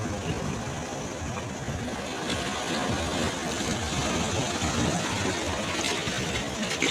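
Sea waves washing on a beach: a steady rush of surf with a slow swell in loudness through the middle and a brief crackle near the end.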